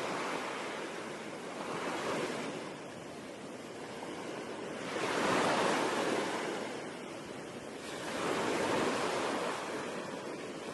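Ocean surf washing in and out, swelling to a peak about five seconds in and again near nine seconds.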